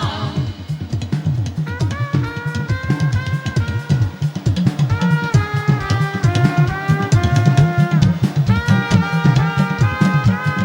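Live gospel band playing an instrumental passage: a drum kit keeping a steady, busy beat under a melody of held notes that step up and down. The choir's singing fades out right at the start.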